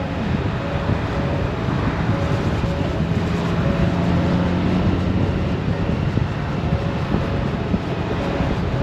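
Honda Gold Wing's flat-six engine running at road speed under a steady rush of wind and road noise. A faint short tone repeats about twice a second.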